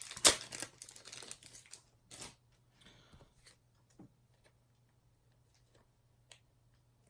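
Plastic card sleeves and packaging crinkling and rustling as a trading card is handled and sleeved, with a sharp snap about a third of a second in. The rustling dies away after about two seconds, leaving a few faint ticks and taps.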